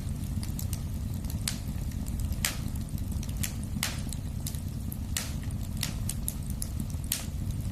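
Wood fire burning in a fireplace: a steady low rumble of flames with irregular sharp crackles and pops, one or two a second.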